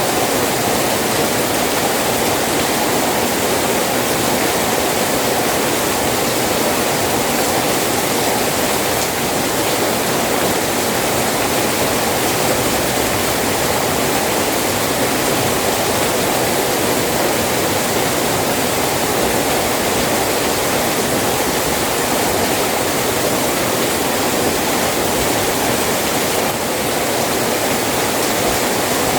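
Rain falling steadily: a dense, even hiss with no separate drops or other events standing out.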